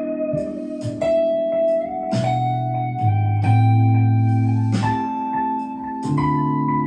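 Clean-toned electric guitar improvising a lead line in A minor, with long held notes that glide upward in pitch. Behind it runs a backing of held bass notes and keyboard or organ chords.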